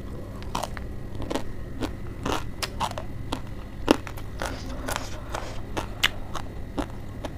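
Close-up chewing of a mouthful of crisp lettuce leaf with noodles: sharp crunches at irregular intervals, two or three a second, one louder crunch about four seconds in.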